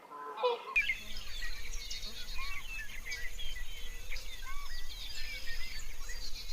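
A flock of small birds chirping together: many short, curved chirps overlapping over a steady background hiss and low hum. Just before this, a brief honk-like call sounds at the very start.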